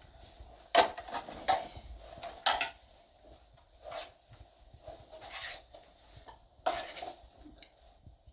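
Irregular knocks and clatter of objects being handled, with sharper hits about a second in, near two and a half seconds, and near the end, and quieter scraping between them.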